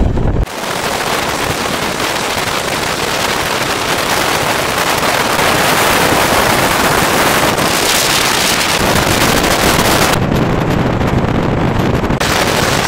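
Loud, steady rushing noise of a moving passenger train, with wind buffeting the microphone. It comes in abruptly about half a second in.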